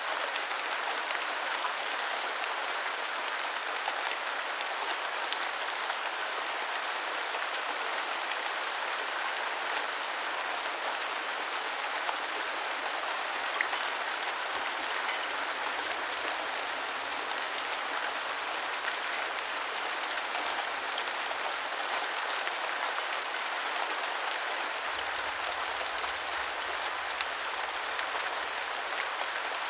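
Steady rain falling: an even hiss of rainfall with many small drop ticks, holding at one level throughout.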